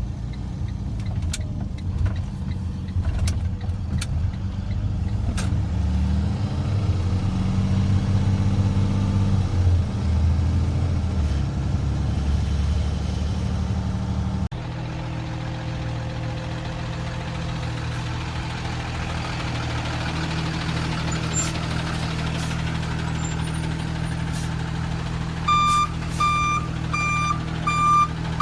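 Freightliner M2 flatbed tow truck's diesel engine running, its speed rising and falling in the first half, then settling into a steady note after an abrupt change about halfway through. Near the end the truck's reversing alarm starts beeping at a steady pace, a little more than once a second.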